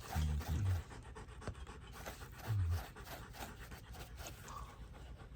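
A dog panting rapidly and evenly, about three to four breaths a second, with a couple of short low voice sounds near the start and about halfway through.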